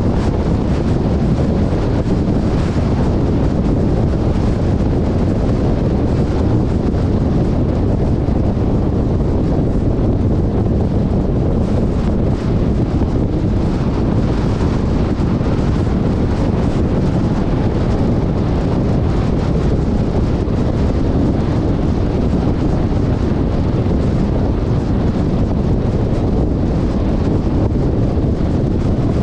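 Heavy wind buffeting the action camera's microphone, a steady low rumble over the noise of a moving vehicle.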